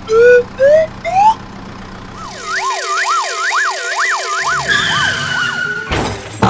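Cartoon siren sound effect: a few short rising whistles, then a siren wailing up and down several times and sliding down, with a thump near the end.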